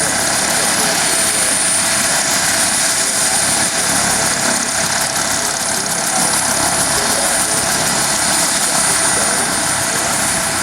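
A U.S. Army UH-1 Huey helicopter's Lycoming T53 turboshaft and rotor running: a loud, steady rush with a thin, steady high tone over it.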